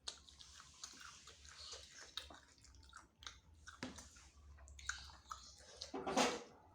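A person chewing and biting into spicy chicken wings close to the microphone, with many small wet clicks and smacks, and one louder noisy burst about six seconds in.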